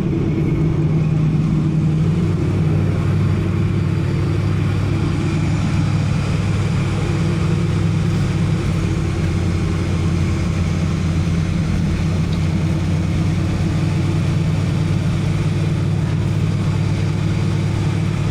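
1983 Oldsmobile Cutlass Hurst/Olds 307 V8 idling steadily.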